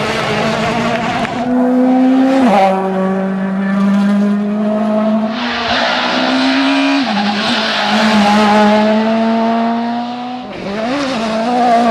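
World Rally Car's 1.6-litre turbocharged four-cylinder engine running hard at high revs, its pitch dropping sharply three times as the driver shifts or lifts. A hiss of tyres runs under the engine through the middle.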